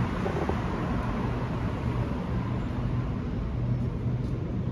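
Steady low engine hum over even traffic noise.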